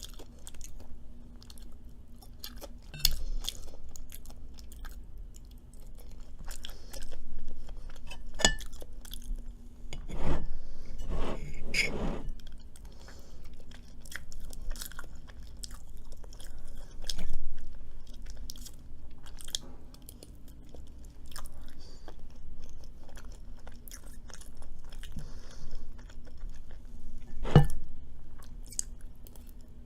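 Close-miked chewing and crunching of food, Cajun fries and brownies, with many small mouth clicks and wet smacks and a few louder bites. A faint steady hum runs underneath.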